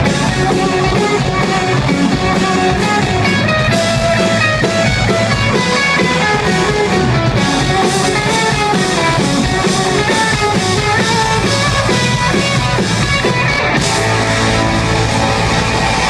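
Live band playing an instrumental passage of a rock-leaning Americana song, with guitars over a drum kit and no singing.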